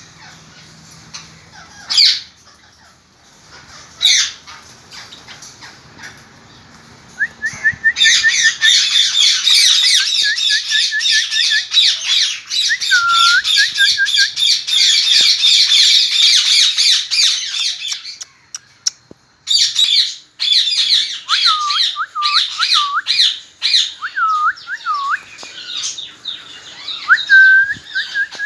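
Pet parrots squawking. Two sharp single squawks come first, then a loud, dense stretch of chattering calls lasting about ten seconds, a short pause, and then a run of shorter squawks and chirps.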